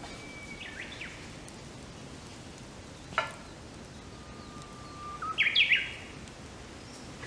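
A songbird singing twice: each phrase is a held whistle that breaks into a quick, higher warble, the second longer and louder. A sharp snap sounds once between them, over a steady soft hiss.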